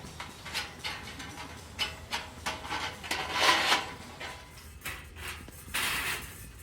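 A string of light knocks and clatters from objects being handled by hand, with a longer rustle about three seconds in and again near the end.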